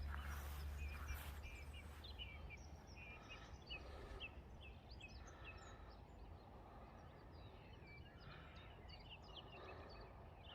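Faint birdsong: many short chirps and twittering notes from several small birds, over a low rumble that fades away in the first two seconds.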